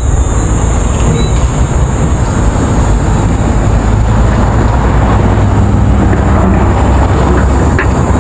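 Steady low rumble of vehicle and road noise, with a constant high-pitched whine above it.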